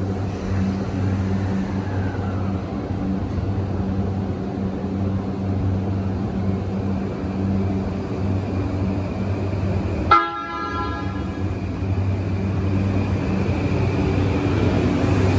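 E235-1000 series electric train standing at the platform with a steady low hum, giving one short horn toot about ten seconds in. It then starts to pull away, its motors' whine rising in pitch near the end.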